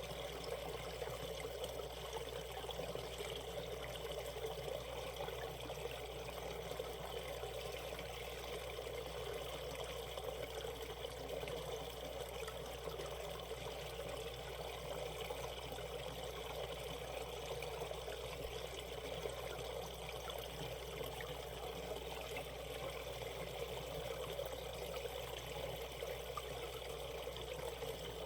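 Shallow valley stream running over rocks, a steady, even babbling and trickling of water.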